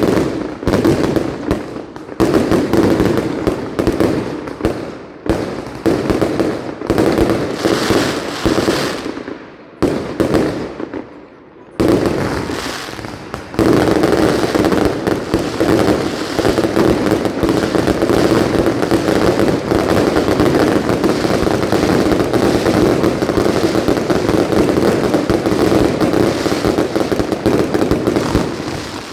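Mascletà firecracker barrage: rapid strings of loud bangs, easing into a short lull about ten seconds in, then a continuous dense roll of explosions from about fourteen seconds on.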